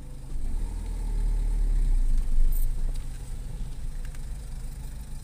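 Car engine heard from inside the cabin, pulling away from a standstill and moving forward a short way: its low rumble swells about half a second in and eases off again after about three seconds.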